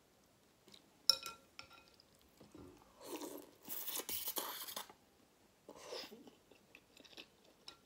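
Close-miked chewing and mouth noises while eating: a sharp click about a second in, then a louder stretch of wet chewing noise in the middle and a shorter one a little later.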